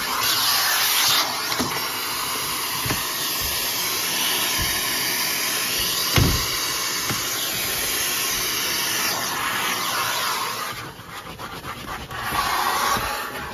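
Numatic Sir Henry cylinder vacuum cleaner running, its nozzle drawing air with a steady rushing hiss, with a few knocks of the tool against surfaces. The suction sound drops about eleven seconds in and comes back up near the end.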